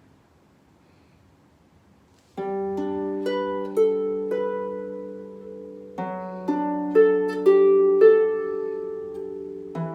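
Harp played slowly in a simplified arrangement: after a couple of seconds of quiet, plucked notes ring on over a low bass note struck about every three to four seconds.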